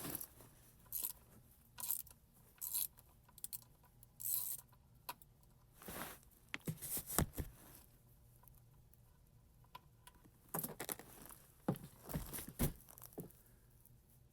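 Irregular metal clinks and scrapes of a 9/16 wrench working loose the oil drain plug on an Onan diesel generator, with short rustling and hissing noises between them.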